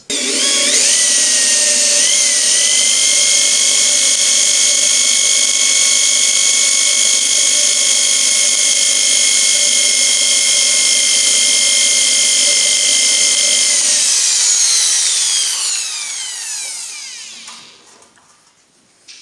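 Electric drill running at a steady high whine for about fourteen seconds, boring a 3 mm pilot hole into the stub of a broken screw for a screw extractor, then winding down with a falling whine as it coasts to a stop.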